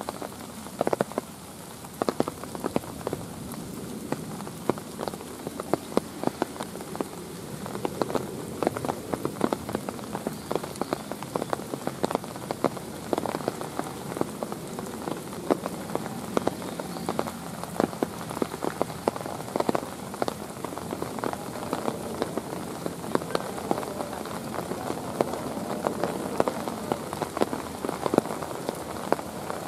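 Steady rain falling, with many sharp, irregular ticks of drops striking a nearby surface.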